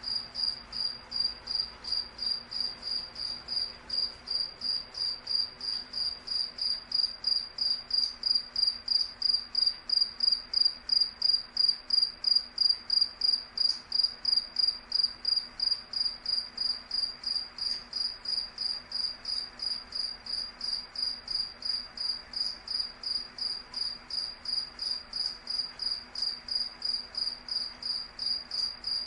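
Cricket chirping steadily in a high, even rhythm of about three chirps a second.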